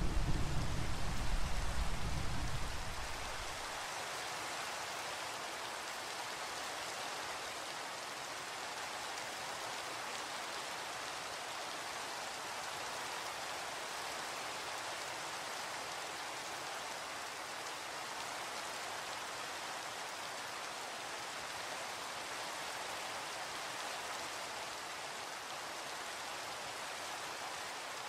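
Steady rain falling, with the low rumble of thunder dying away in the first three seconds.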